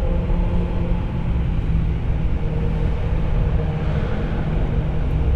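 BMW E92 M3's V8 engine and loud exhaust running steadily at an even engine speed, with no revving.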